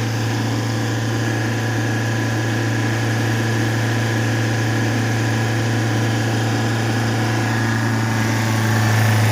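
Force Motors Traveller BS6 diesel engine idling steadily with a constant low hum, getting a little louder near the end.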